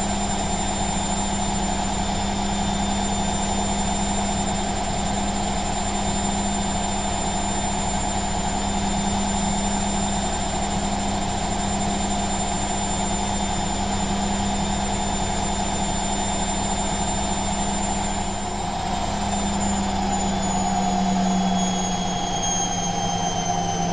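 Washing machine on its spin cycle, the drum turning fast with a steady, high-pitched motor whine and a hum. About eighteen seconds in, the whine begins to fall in pitch as the spin speed changes.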